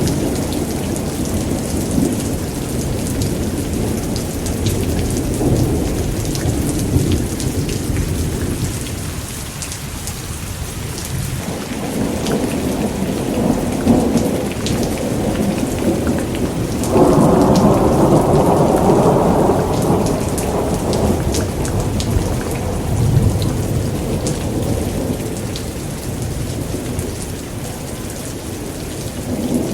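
Thunderstorm: steady rain with thunder rumbling and rolling throughout. A louder peal of thunder breaks in suddenly a little past halfway and rolls on for a few seconds.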